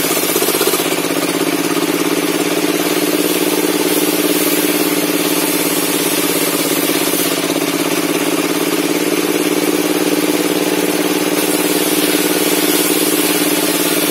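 Log-cutting table saw running steadily: its drive motor and spinning circular blade keep an even, unbroken pitch.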